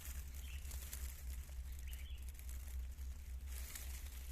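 Dry grass nest rustling and crinkling as it is handled, over a steady low rumble of handling noise on the microphone, with a couple of faint high peeps.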